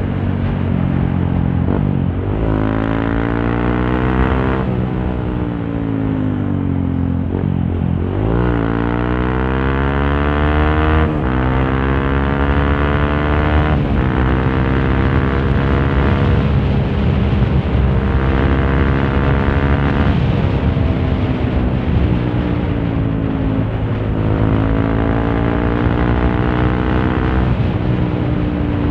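Honda CRF150L single-cylinder four-stroke engine running through a Norifumi Torc aftermarket exhaust while being ridden. Its note climbs and falls again and again as the bike accelerates, shifts gears and rolls off the throttle, with sharp drops in pitch every few seconds at first and slower swells later on. It is heard from a microphone inside the rider's helmet.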